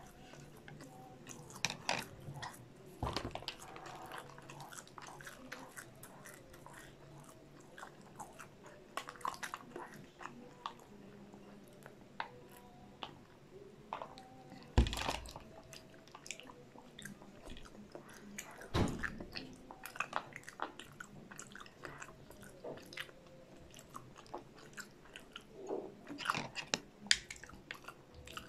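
Close-miked chewing and biting of cheesy popcorn chicken: soft, wet mouth sounds and small clicks, with a few louder thumps now and then.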